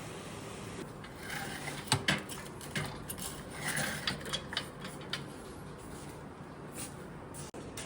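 Several light metallic clinks and knocks from metal transfer equipment being handled, with a couple of short puffs of hiss among them over a steady background hiss.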